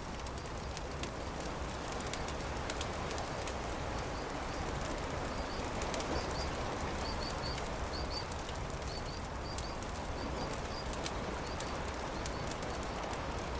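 Campfire crackling, with sharp pops scattered over a steady rush of noise. Birds chirp in short high pairs through the middle.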